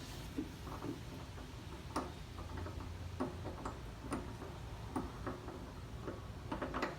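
Irregular light clicks and taps, about a dozen spread unevenly, as a truck-bed sidewall tie-down anchor is fitted into its hole and turned by hand.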